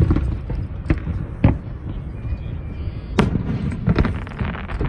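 Aerial fireworks going off: several sharp bangs over low rumbling booms, with a quick run of crackling cracks near the end.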